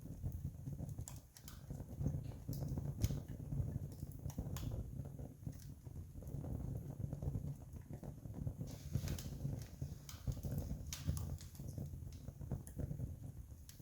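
Wood campfire crackling, with scattered sharp pops and snaps over a steady low rumble of the burning fire.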